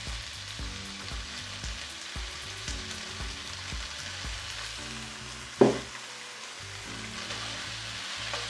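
Shrimp and vegetables sizzling steadily in a hot frying pan as oyster sauce goes in and is stirred through, with one sharp knock about five and a half seconds in. Faint background music with a soft beat plays underneath.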